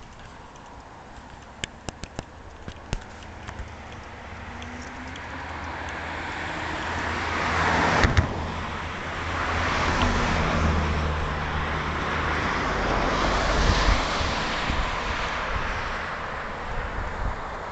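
Motor vehicles passing on a road: tyre and engine noise that swells to a peak about eight seconds in, stays loud, then eases off near the end. A few light clicks come in the first few seconds.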